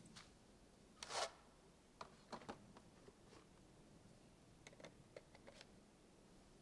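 Faint handling noises: a soft rustle about a second in, then scattered light clicks and taps.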